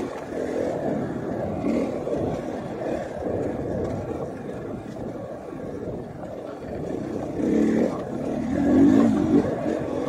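KTM 500 EXC enduro motorcycle's single-cylinder four-stroke engine running under load on a trail ride, revving up and easing off, loudest near the end.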